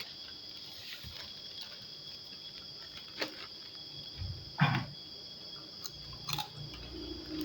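Close-up chewing and crunching of fried rice with raw shallots, with a few sharp clicks, the loudest about halfway through. A steady high insect drone runs underneath.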